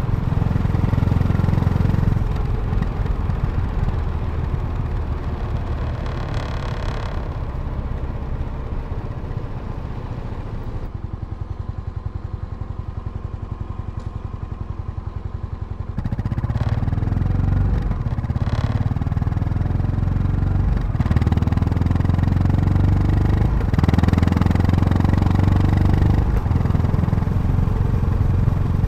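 Yamaha SR400's single-cylinder four-stroke engine running. In the middle it drops for about five seconds to a quieter, slower, evenly pulsing idle, then picks up louder again.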